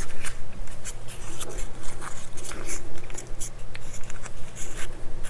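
Small screwdriver driving a tiny screw into plastic model-kit parts: irregular light scratching and clicking.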